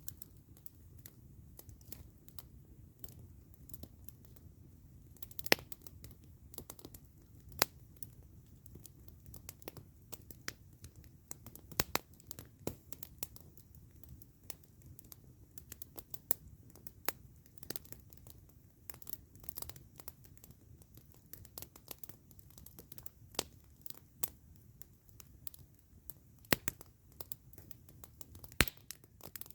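Campfire crackling: irregular sharp pops and snaps of burning wood, a few much louder than the rest, over a low steady rumble.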